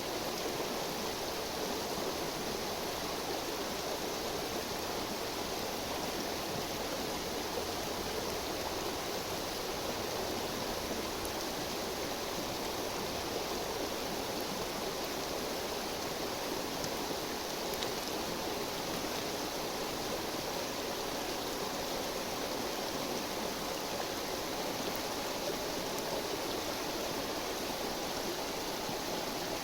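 A river babbling steadily, with a few faint clicks above the flow.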